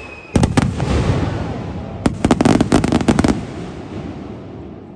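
Aerial fireworks bursting: a whistling tone cuts off as a few sharp bangs go off, then a rapid cluster of crackling bangs about two seconds in, the rumble fading away near the end.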